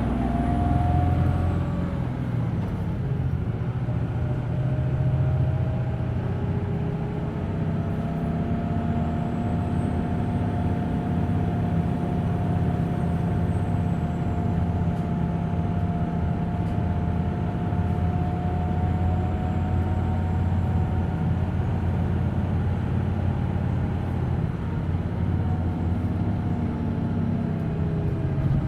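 Hino Blue Ribbon City Hybrid diesel-electric city bus under way, heard from inside the cabin: a steady engine drone with a thin whine that slowly rises in pitch, holds, and falls away near the end.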